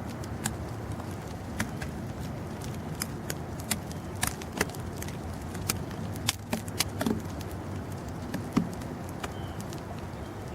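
Snowstorm ambience: a steady low rumble with scattered, irregular sharp ticks and clicks, the loudest about two-thirds of the way in.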